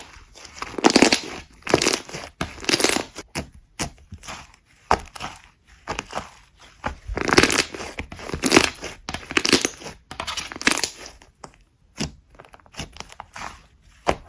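Slime being squeezed and pressed by hand: a run of short, noisy squishes roughly one a second, with sharp little clicks and pops between them.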